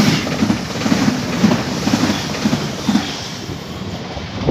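Red electric multiple-unit train passing along the platform, its wheels knocking over rail joints in a regular beat about twice a second over a steady rumble. The sound eases off after about three seconds as the last car goes by.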